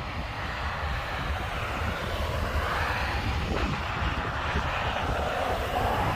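Loaded dump truck's diesel engine running as it travels downhill: a steady drone that rises slightly in pitch near the end.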